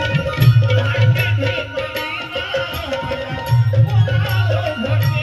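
Marathi folk devotional song accompaniment, an instrumental passage between sung lines: hand drums such as dholki or tabla beating a driving rhythm over a steady melodic instrument.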